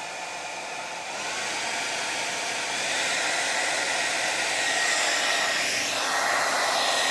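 Electric blow dryer running steadily, blowing air onto a horse's damp coat. It grows gradually louder over the first few seconds, with a faint high whine over the rush of air.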